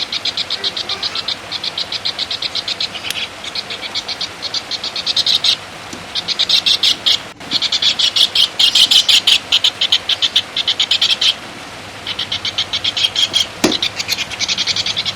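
A songbird's rapid chattering call: long runs of high, even ticking notes, about nine a second, broken by brief pauses.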